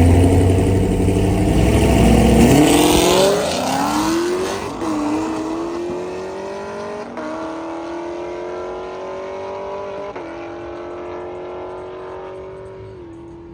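Car engine at full throttle accelerating away down the drag strip. The engine note climbs in pitch and drops at each of about four gear shifts, fading steadily as the car pulls away.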